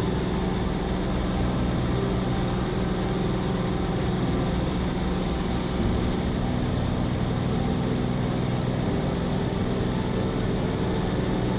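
Engine running at a steady speed: a constant drone whose pitch does not change.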